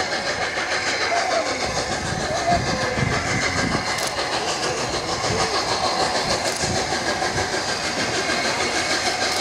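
Heritage railway train running, with a steady rumble and rattle of wheels on the rails.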